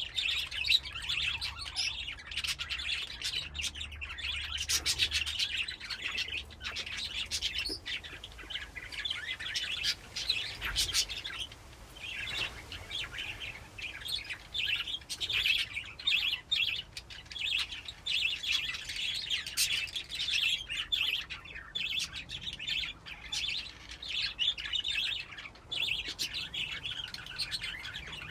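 A flock of budgies chirping and chattering together without pause, many overlapping calls.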